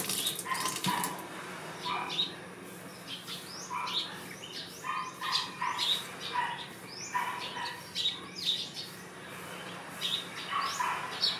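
Small birds chirping in short, repeated notes throughout. A kitchen tap runs for about the first second, then stops.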